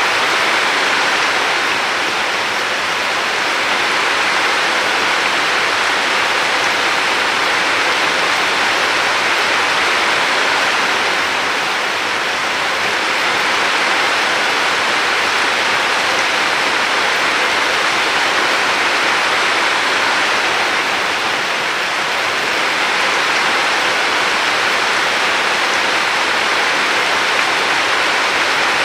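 River water flowing: a steady, even rush of water, easing off slightly and swelling back about every ten seconds.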